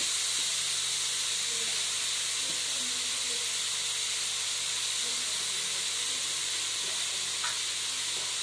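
Steady, even hiss of grated carrots cooking in a hot steel kadai, their moisture sizzling off.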